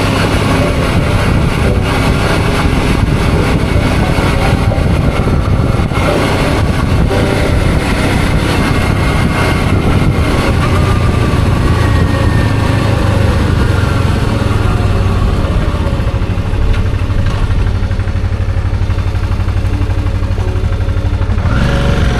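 Suzuki V-Strom 650's V-twin engine under way, mixed with wind noise on the microphone. About halfway through the wind eases and the engine settles to a steady low running, then starts to rev up again right at the end.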